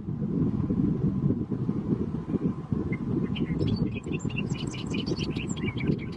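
A small bird chirping a quick run of short high notes for about three seconds, starting about halfway in, over a steady low rumble.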